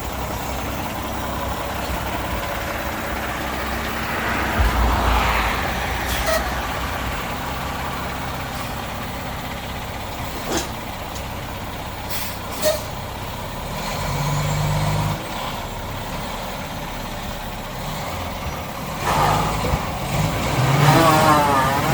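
Heavy truck engine running steadily under load, with a few short air hisses along the way: a fire truck straining to climb onto a trailer.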